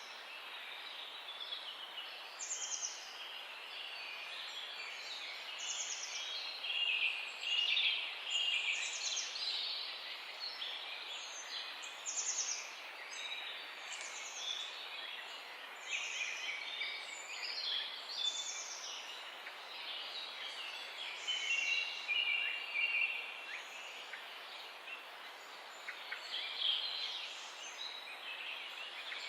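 Mixed songbird chorus over a steady background hiss, several birds singing and calling at once. One bird repeats a short, high call about every one and a half to two seconds.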